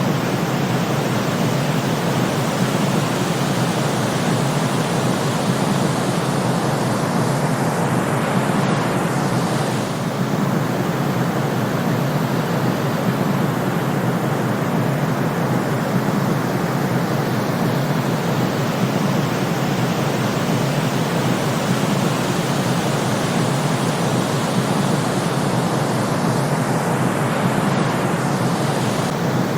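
Steady white-noise sleep track: an even, unbroken hiss with no deep low end.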